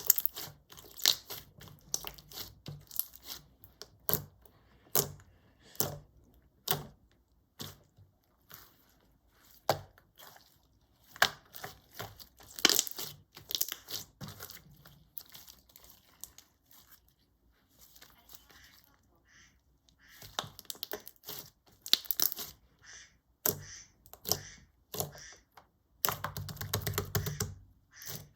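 Clear slime full of air bubbles being squeezed and stretched by hand, popping and crackling in irregular runs of sharp clicks.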